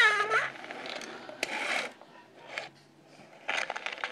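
Mattel Tiny Chatty Baby pull-string talking doll: a high recorded voice phrase from its voice box ends in the first half-second. Then come the mechanical clicking and whirring of the pull-string mechanism, in short bursts.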